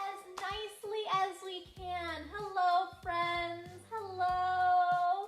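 A woman singing a children's song in a high voice, the last note held for about a second near the end.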